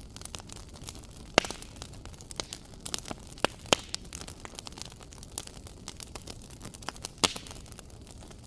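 Fireplace fire crackling: a dense run of small ticks and snaps over a soft steady hiss, with louder pops about a second and a half in, near four seconds, and after seven seconds.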